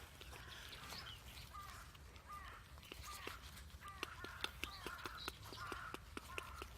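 Crows cawing over a nightingale's song, short repeated calls throughout. In the second half a quick run of sharp clicks comes in.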